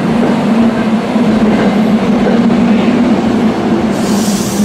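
Commuter push-pull train running close by at the platform, a loud steady rumble with a strong hum. A short hiss of air comes near the end.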